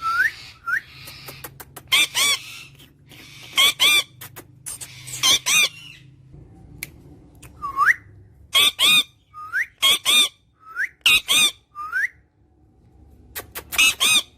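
Parrot calling: short harsh squawks, often in quick pairs, alternating with brief whistles that slide upward in pitch, repeated every second or so.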